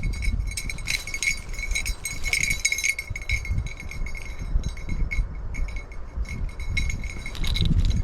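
A hunting dog's bell jingling in quick, uneven pulses as the dog runs, with low rustling underneath.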